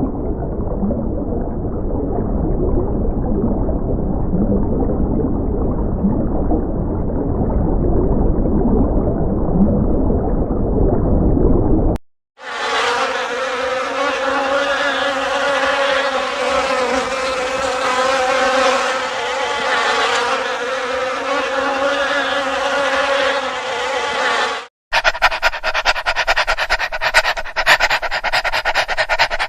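A dull, low rushing noise for about twelve seconds, then a steady droning insect buzz for about twelve seconds, cut off abruptly. In the last few seconds comes a fast, regular rasping rhythm.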